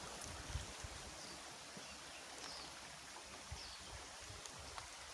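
Steady rush of a flowing stream, with a few faint short high chirps and some soft low thumps.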